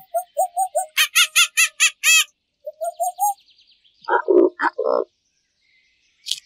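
A young macaque's rapid run of short, squeaky, rising calls for about two seconds, then after a pause three low croaking calls about four seconds in.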